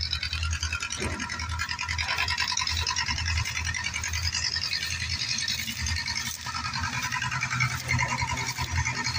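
Steady buzzing rattle of a small motor-driven machine, with a low hum under it.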